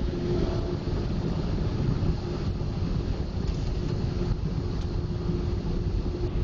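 Steady low rumble with a constant hum from automatic car wash machinery, heard from inside the car going through the wash.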